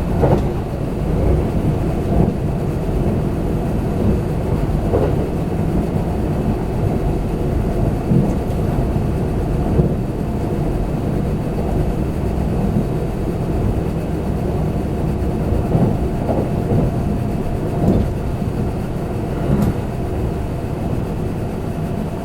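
Running noise inside a Kintetsu limited express train: a steady low rumble, with a few brief knocks from the wheels on the track.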